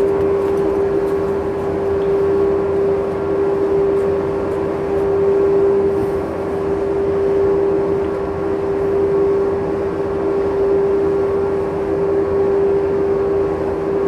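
A steady machine drone, like a running engine, with one constant humming tone over an even rumble that does not change.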